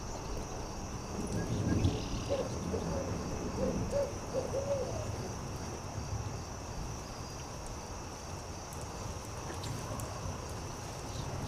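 An owl hooting, a short run of several low hoots in the first half, over a steady high chirring of night insects. A few faint campfire crackles come through later.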